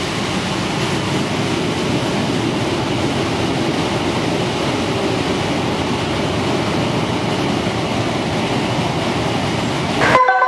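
Passenger train of coaches with an EF510 electric locomotive rolling slowly past along a station platform: a steady, even rumble of wheels and running gear. Near the end it cuts off abruptly and a marimba-like chime melody starts.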